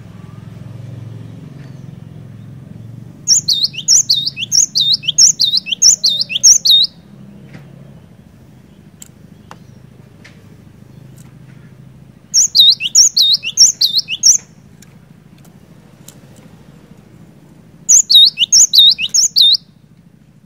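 Cinereous tit singing: three bouts of fast, high, repeated down-slurred whistled notes, about four a second, each bout lasting two to three and a half seconds with pauses between. A faint low hum runs underneath.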